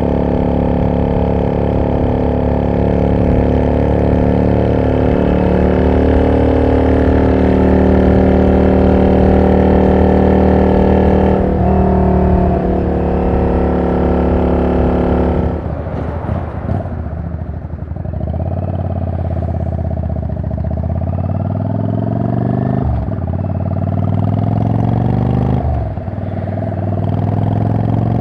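Yamaha Drag Star 400 Classic's V-twin running through a loud aftermarket exhaust, holding steady high revs for about fifteen seconds before the revs fall away. It then pulls hard through the gears, the pitch rising and dropping back at each upshift, twice and then again near the end.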